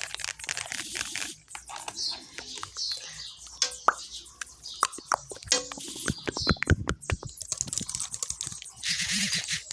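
Rapid, irregular keyboard typing clicks with a few short pops mixed in: a typing and message sound effect for an on-screen chat.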